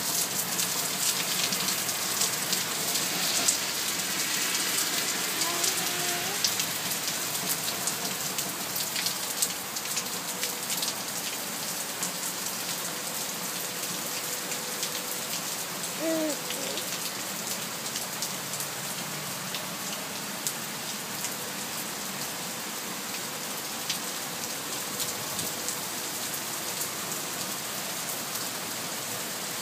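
Rain storm: steady rain, with drops striking a hard surface as many sharp ticks. It eases slightly toward the end.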